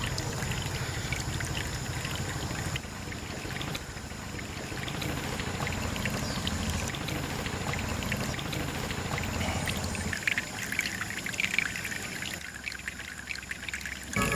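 Water pouring and trickling steadily, with a low fluttering running under it. About ten seconds in, the flow thins and scattered small drips and clicks take over.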